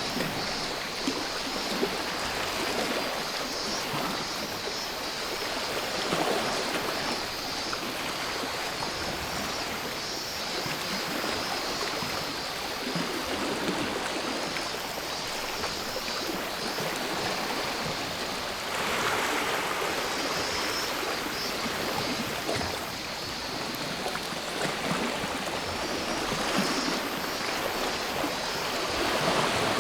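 Sea waves washing onto the shore, the wash swelling every several seconds, with cicadas buzzing steadily in a high band above it.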